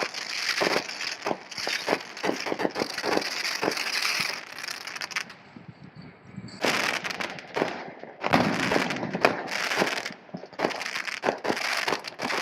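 Fireworks crackling and popping in rapid, dense clusters, with a short lull about halfway through before the popping starts again.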